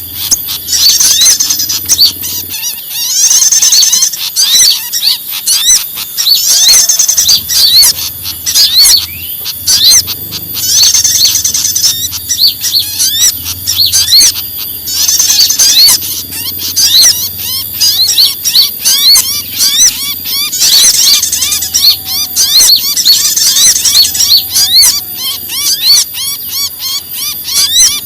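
A dense chorus of excited small songbirds: many overlapping quick chirps and short rising-and-falling whistles, with a busier high trilling cluster coming back every few seconds. It is a bird-lure recording of noisy, agitated calls, the kind given by a trapped or distressed bird, used to draw small birds in.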